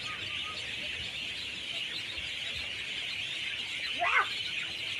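Dense chorus of many birds chirping at once, a steady high twittering wash, with one louder call that sweeps up and down in pitch about four seconds in.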